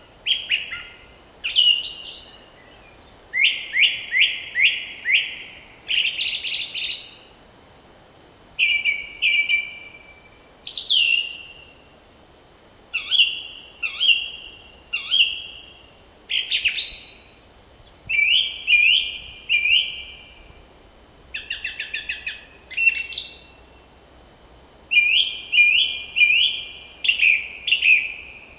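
Songbirds singing in short phrases one after another, each a quick run of repeated clear notes, some ending in a higher flourish, with brief pauses between phrases.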